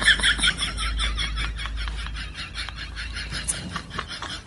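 A group of young people laughing in quick, high-pitched bursts that fade over the stretch, over a low rumble.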